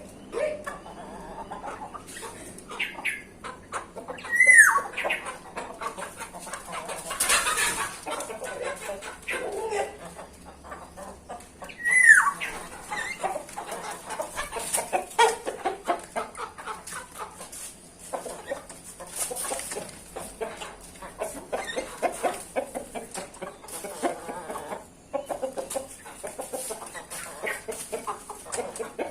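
Bulbuls (merbah) and other aviary birds calling: a busy run of short clucking and chattering calls, with two loud falling whistled notes, one about four seconds in and one about twelve seconds in.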